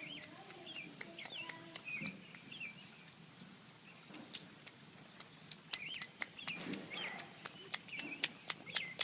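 A bird chirping repeatedly in short rising-and-falling calls, in two bouts, with sharp taps that come more and more often in the second half.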